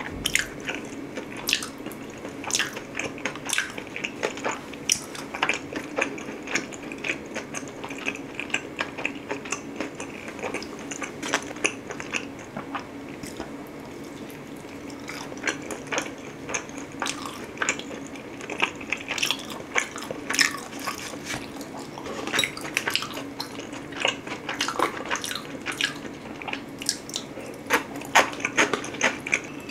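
Close-miked eating: wet chewing and smacking of saucy spaghetti and pizza, with many short irregular mouth clicks over a steady low hum.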